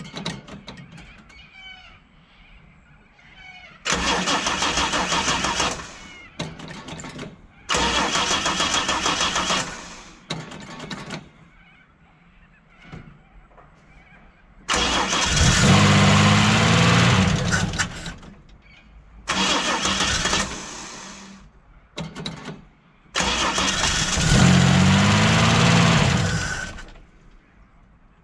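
Holden HQ's inline six-cylinder engine cranking over on the starter in five separate bursts. On the third and the last it catches and runs briefly with rising revs before dying. The long-parked engine is running only on fuel poured by hand into the Stromberg carburettor bowl, with the fuel line disconnected.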